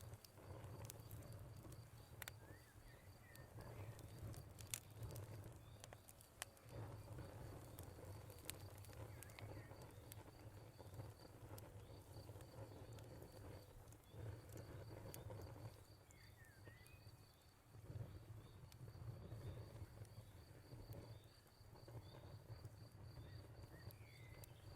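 Wood fire crackling faintly, with scattered sharp pops over a low, wavering rumble. A faint high chirping repeats evenly in the background, like an insect's.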